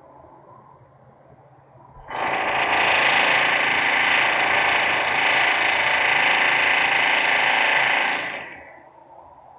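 A loud burst of industrial machinery noise from a plant, starting suddenly about two seconds in, holding steady for about six seconds, then dying away.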